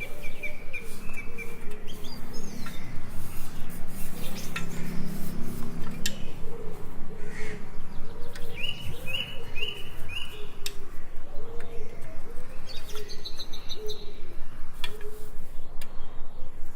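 Small birds chirping in short repeated calls, with scattered light metallic clinks and a steady pulsing background noise.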